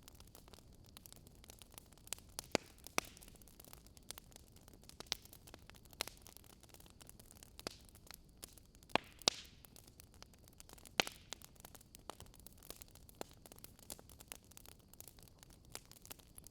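Wood fire crackling faintly: irregular sharp pops and snaps over a soft steady hiss.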